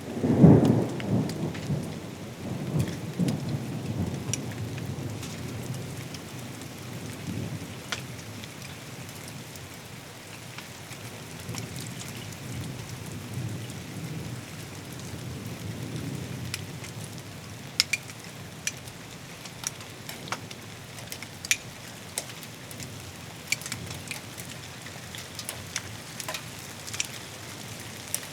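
Thunderstorm: a loud thunder crack right at the start that rumbles on for about four seconds, with a softer roll of thunder swelling about halfway through, over steady rain. Scattered sharp ticks of drops striking a surface come through in the second half.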